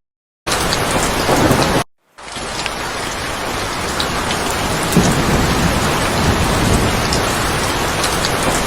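Heavy rain pouring steadily, with two brief dead-silent gaps near the start where the footage is cut.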